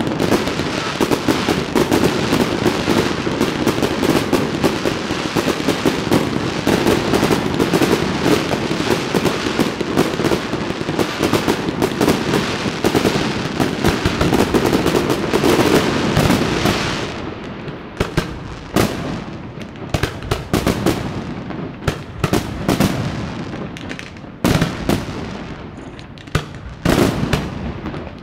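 Fireworks going off: a dense, rapid barrage of crackling bangs for about the first seventeen seconds, then thinning out to scattered separate bangs.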